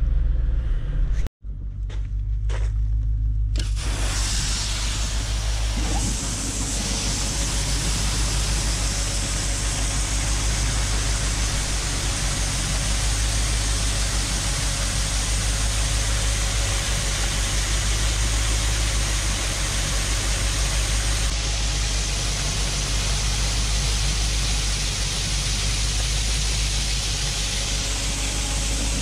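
A truck driving: a steady low, pulsing engine rumble under a constant rushing road and wind noise. It starts abruptly about four seconds in, after a short quieter stretch.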